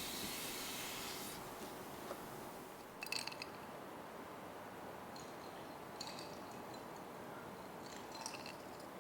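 Quiet kitchen handling: a brief soft hiss at the start, then a few light clinks and taps of utensils or dishes about three, six and eight seconds in.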